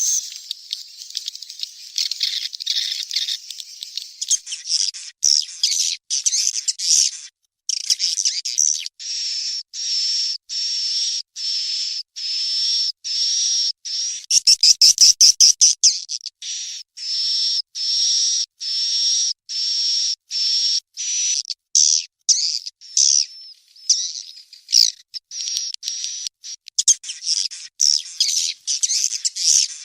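Swiftlet chicks calling: a dense, continuous string of short high-pitched chirps, each repeated about every half second, with a louder, faster run of calls about halfway through.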